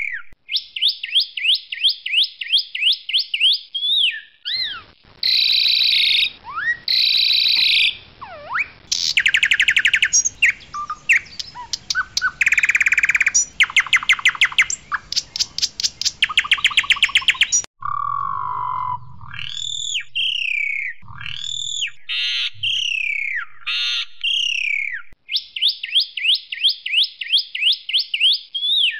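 Asian pied starling (jalak suren) singing loudly: fast trains of repeated chattering notes and harsh rattles, mixed with clear whistled slurs that rise and fall. A quick run of repeated notes returns near the end.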